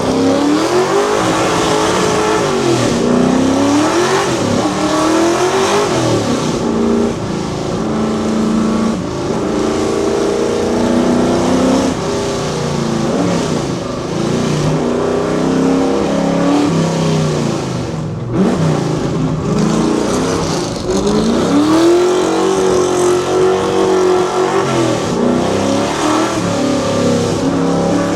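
Ford Fox Body Mustang's V8 engine under hard acceleration on a hillclimb, its pitch climbing and dropping again and again as it is revved through the gears and shifted, with a brief drop in the sound about two-thirds of the way through.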